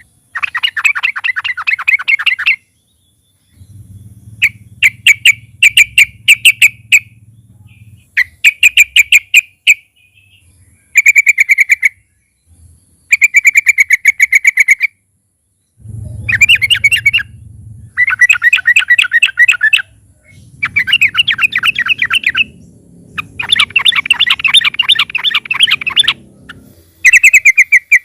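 Yellow-vented bulbul (trucukan) singing loud, rapid chattering phrases in bouts of one to three seconds, about ten bouts separated by short pauses.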